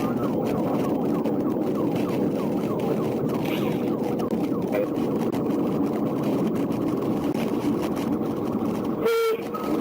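Police cruiser siren on rapid yelp, about four sweeps a second, over heavy road and engine noise of the car at pursuit speed. Near the end the noise drops away and a short steady tone sounds.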